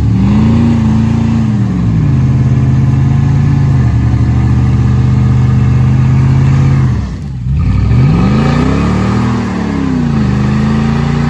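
Off-road vehicle engine revving hard. The revs climb and hold high, ease down about four seconds in, drop away briefly around seven seconds, then climb and hold high again.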